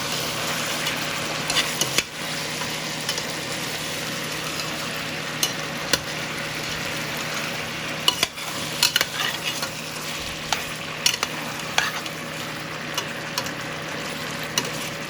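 Chicken sizzling as it fries in a pot, a steady hiss, with scattered sharp clicks of a utensil against the pot, several of them clustered together about eight seconds in.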